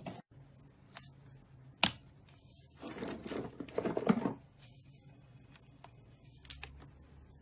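Slime being pressed and squished by hand: a sharp pop about two seconds in, a stretch of crackling around three to four seconds in, and a few small clicks near the end.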